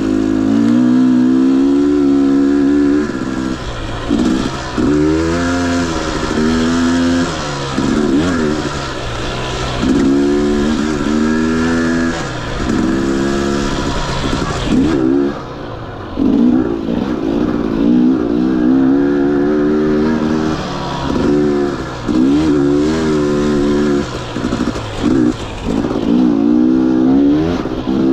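Single-cylinder two-stroke fuel-injected engine of a 2021 Husqvarna TE 250i dirt bike, revving up and falling back over and over as the throttle is worked on and off.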